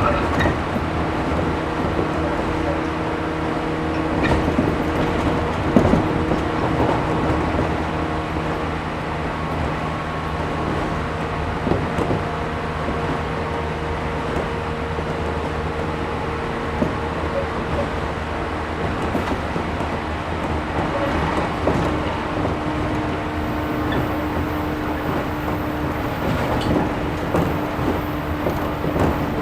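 Interior running sound of a JR 113 series 1500-subseries resistance-controlled electric train under way: a steady rumble of the wheels with a level motor-and-gear hum that fades and returns, and scattered short clicks from the rails.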